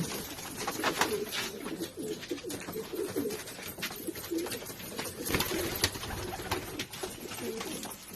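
Domestic pigeons cooing, several low calls overlapping, with scattered sharp taps between them.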